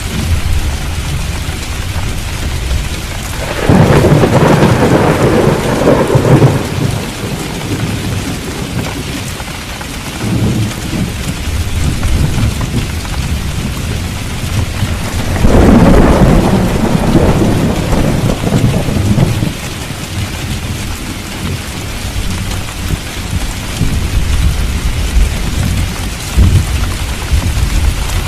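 Steady heavy rain falling, with deep thunder rumbling under it and two louder rolls of thunder, one about four seconds in and one about halfway through.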